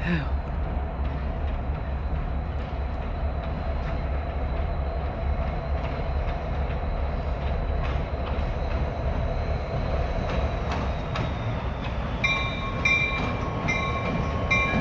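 Approaching Canadian National diesel freight locomotives make a steady low rumble. About twelve seconds in, a regular, repeating ringing starts, which is the locomotive bell.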